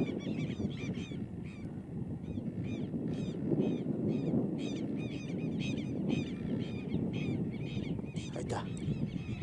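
Birds calling over and over, short high calls that each slide down in pitch, a few a second, over a steady low rumble.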